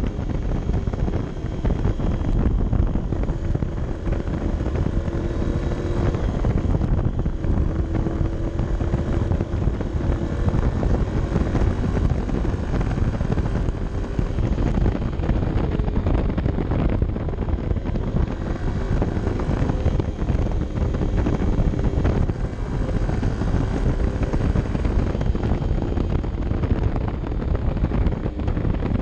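Honda CB 125 F's single-cylinder four-stroke engine running under way, its note rising and falling with the throttle, under heavy wind rumble on the camera microphone.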